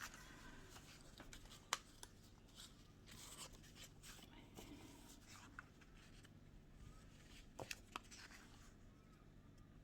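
Near silence with faint paper handling: light rustling and a few soft ticks, one about two seconds in and two close together around eight seconds in.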